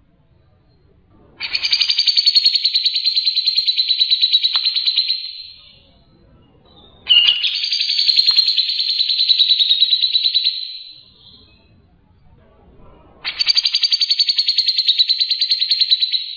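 A songbird singing three long, loud phrases, each a fast trill of rapidly repeated high notes lasting about four seconds, with pauses of a couple of seconds between them.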